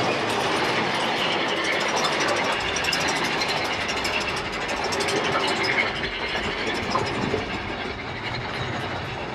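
Steady rumble and rattle of a moving passenger train heard from on board: Disneyland Railroad cars running along the track.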